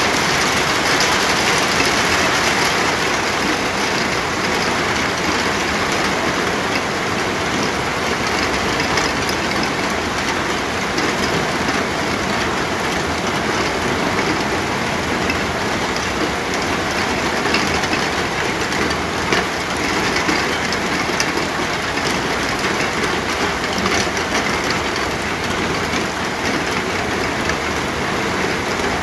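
Steady heavy rain, an even hiss with fine scattered patter of drops.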